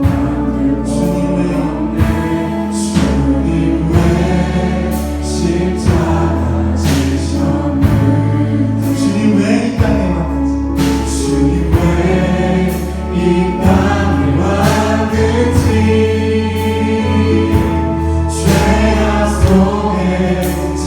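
A church praise band playing a worship song live: a group of voices singing together over bass and drums.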